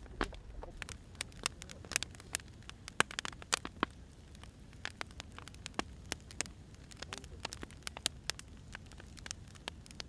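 Burning firewood crackling, with irregular sharp cracks over a low steady hiss.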